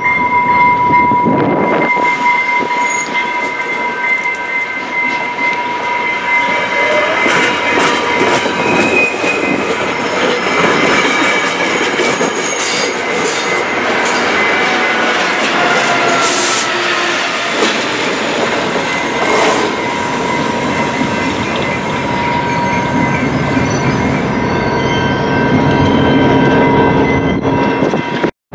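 A train passing close by, its steel wheels squealing in a long steady high tone over the rumble and clatter of the cars on the rails. The sound cuts off abruptly at the end.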